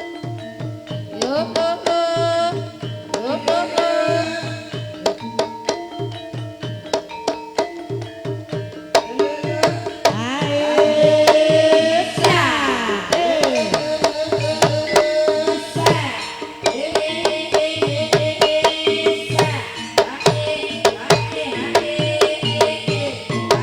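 Gamelan music accompanying an ebeg dance: steady metallophone tones over a driving kendang drum pattern, with a melody line sliding in pitch about two seconds in and again from about ten to thirteen seconds.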